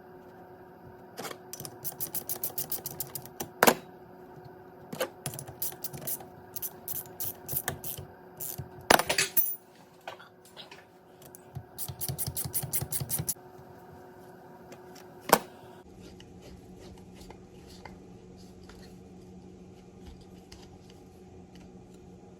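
Metal hand tools and parts clinking on a 1978 Ford steering box being taken apart, with scattered sharp clicks and two runs of rapid, even clicking, over a steady background hum.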